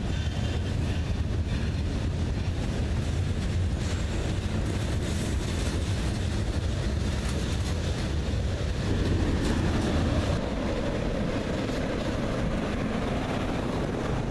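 Freight cars of a passing train rolling on the rails: a steady low rumble of steel wheels on track. The rumble changes character about nine or ten seconds in.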